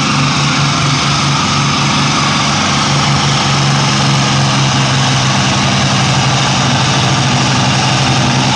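A pulling tractor's engine running hard at full throttle under load as it drags the brake sled down the track: a loud, steady engine drone.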